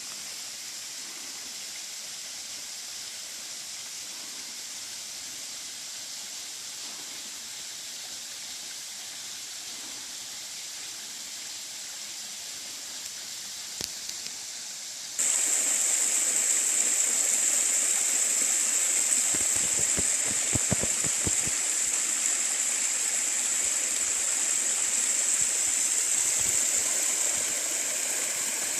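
Mountain valley stream rushing down over rocks: a steady hiss of running water that jumps suddenly louder about halfway through.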